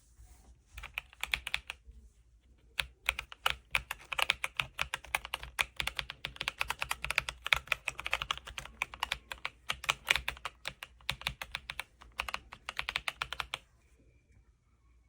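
Typing on a Royal Kludge S98 mechanical keyboard. A short burst of keystrokes comes first, then after a brief pause about ten seconds of fast, continuous typing that stops near the end.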